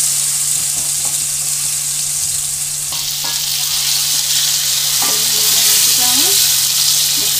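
Paneer cubes shallow-frying in hot oil in a steel kadhai, a steady sizzle, with a wooden spatula stirring and turning them in the second half.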